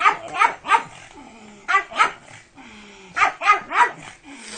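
Pug barking in quick groups of short, sharp barks: three in a row, then two, then a run of four near the end.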